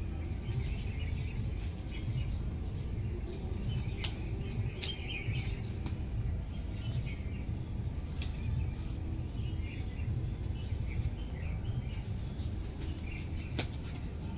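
Small birds chirping and calling on and off over a steady low rumble, with a few sharp clicks scattered through.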